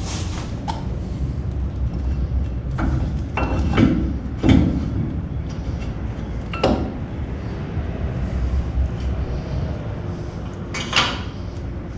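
Metal clinks and knocks of brake caliper hardware and tools being handled while the calipers are bolted on, about five scattered strikes with the loudest a few seconds in, over a steady low hum.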